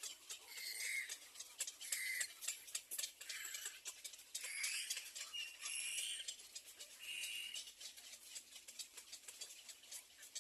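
Ducklings peeping, short high calls repeated about every second or so, over many faint scattered clicks.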